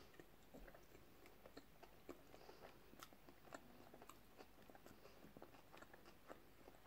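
Faint chewing of a mouthful of sushi: irregular small soft clicks, a few a second, over quiet room tone.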